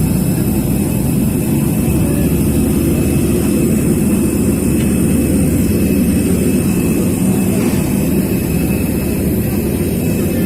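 Steady cabin noise inside a jet airliner: an even low rumble with faint high steady whine tones above it.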